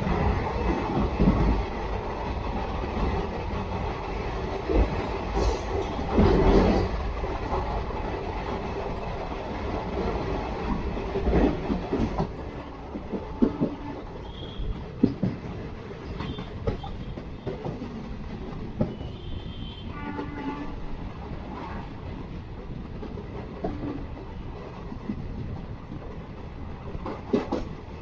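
Passenger train running along the track: a steady rumble of the coaches, with the wheels clacking over rail joints. The noise is louder for a moment about six seconds in.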